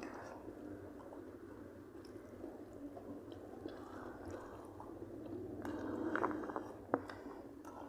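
A person chewing food close to the microphone, with wet mouth sounds and small clicks. The chewing grows louder about six seconds in, and a sharp click comes just before the end.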